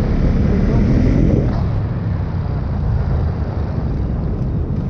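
Motorcycle engine running steadily while riding, with road and wind noise over it.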